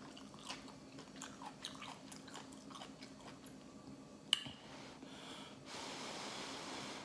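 Close-miked chewing with soft, wet mouth clicks, then a sharp click a little over four seconds in. Over the last second or so comes a steady airy hiss of breath as hot ramen noodles are held up at the mouth on chopsticks.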